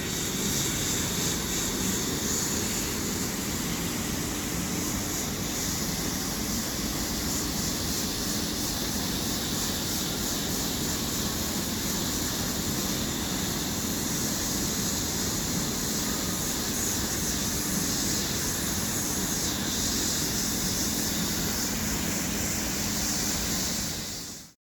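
Hot-air plastic welder blowing steadily while cracks in motorcycle fairing plastic are welded. It is a continuous hiss with a faint hum under it, fading out just before the end.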